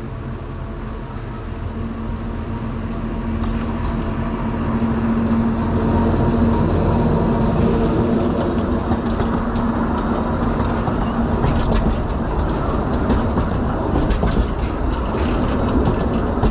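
Akasawa Forest Railway's small narrow-gauge diesel train running, with a steady low drone that grows louder over the first several seconds. In the last few seconds come short clicks of the wheels over the rail joints.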